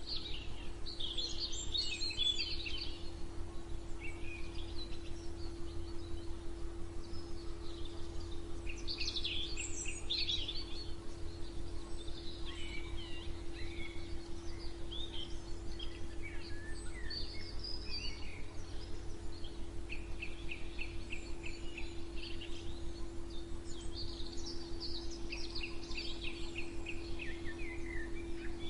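Several birds singing and chirping in scattered bursts, with rapid repeated trills about two-thirds of the way in and again near the end, over a steady low hum.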